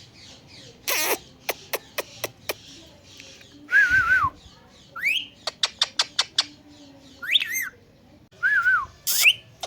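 Indian ringneck parrot calling: runs of sharp rapid clicks, about five or six a second, mixed with short wavering and rising whistled calls and a few harsh squawks.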